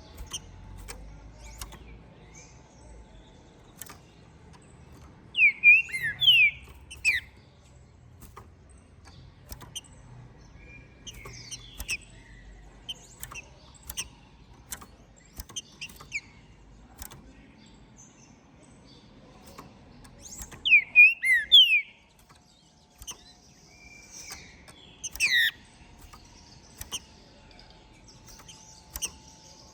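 Green-winged saltator (trinca-ferro) singing loud short phrases of quick sweeping whistled notes, three times, with softer notes between them. Sharp clicks recur throughout.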